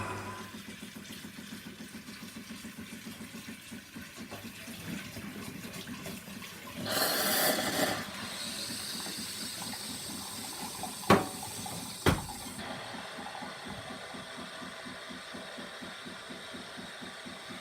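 Miele CM 7300 super-automatic espresso machine brewing: its pump pulses steadily as liquid runs through. A short loud hiss comes about 7 seconds in, and two sharp clicks about a second apart follow a few seconds later.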